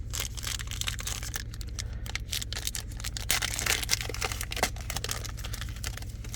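Trading-card pack being handled: a foil pack wrapper crinkling and tearing, with cards flicked and shuffled, in a quick run of small crackles and clicks that are busiest around the middle.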